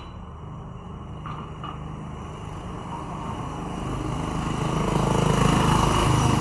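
An engine running with a steady low hum that grows louder from about four seconds in, with two faint clicks a little over a second in.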